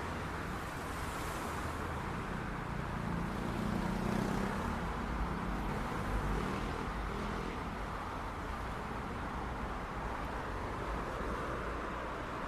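City street traffic: a steady wash of road noise from passing cars, with a low engine rumble that swells and fades a few seconds in as a vehicle passes.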